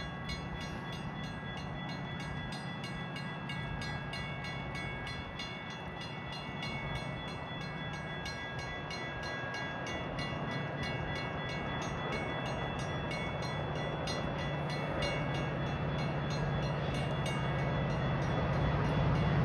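A Metra diesel train approaching without stopping, its low engine drone growing steadily louder. A fast, regular ringing tick runs over it throughout.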